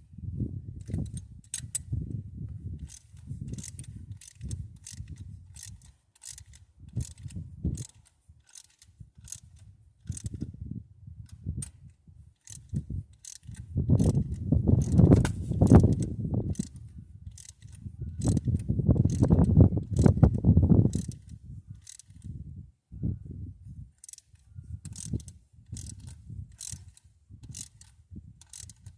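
A socket ratchet clicking in repeated strokes on the Ford Fairlane's V8 while the rocker arms are being set. Two longer, louder stretches of heavy mechanical ratcheting come midway.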